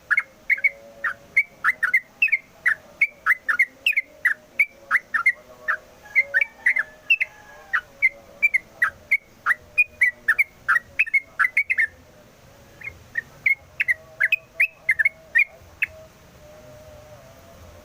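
Yellow-vented bulbul (trucukan) singing a rapid, unbroken run of short whistled notes, about three to four a second. The song pauses briefly about twelve seconds in, resumes, and stops a couple of seconds before the end.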